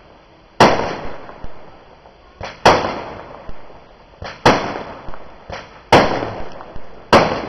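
Fireworks going off: five loud bangs about one and a half to two seconds apart, each trailing off in echo, with smaller pops and cracks between them.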